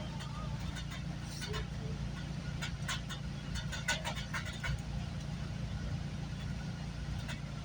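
Steady low rumble of a GO Transit bilevel commuter train running along the line, heard from inside the passenger coach, with scattered light clicks and knocks in the first few seconds.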